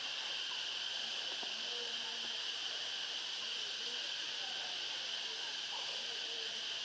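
Steady high-pitched drone of an insect chorus, unbroken throughout, with faint short sounds underneath.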